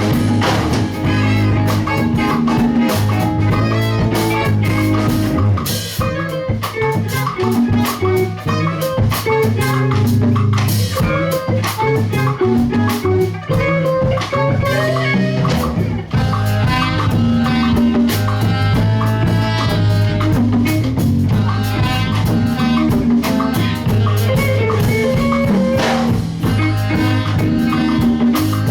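A live band playing an instrumental passage: electric guitar over bass and drum kit with a steady beat.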